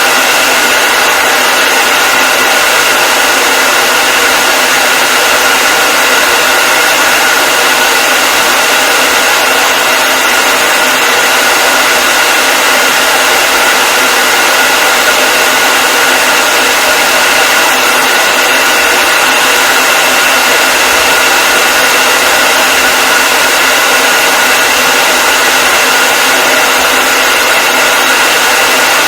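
Hair dryer running steadily, a loud, even rushing hiss with a constant high whine from its motor and fan.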